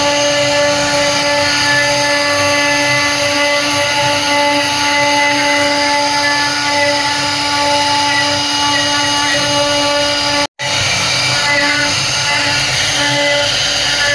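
CNC router spindle running steadily as it carves wood, a constant whine over the noise of the cut. The sound breaks off for an instant about ten and a half seconds in, then carries on.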